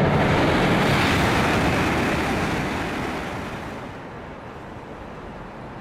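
Shanghai maglev train rushing past at speed: a loud rush of air with no engine or wheel tones, which dies away over about two seconds near the middle and leaves a fainter steady noise.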